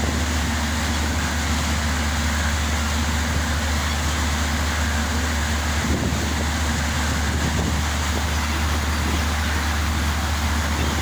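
Steady low drone of a passenger ship's engine, under a constant rush of wind and water noise.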